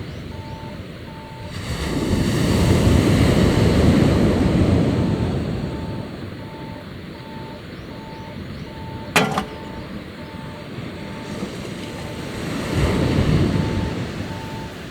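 Sea waves washing onto the shore in two slow surges, the first long and the second shorter near the end. A steady run of short, evenly spaced high beeps carries on underneath, and a single sharp click comes about nine seconds in.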